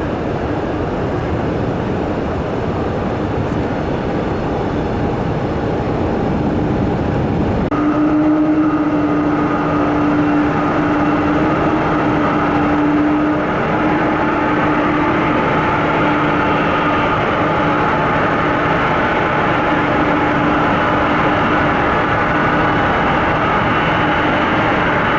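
Jet airliner engines running: a broad roar that changes abruptly about seven and a half seconds in to a steady whine with a humming tone.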